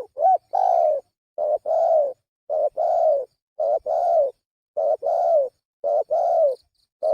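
Spotted dove (tekukur) cooing in a steady series: a short coo followed by a longer coo that dips at its end, repeated about six times, roughly once a second. This is the call played as a bird-catcher's lure.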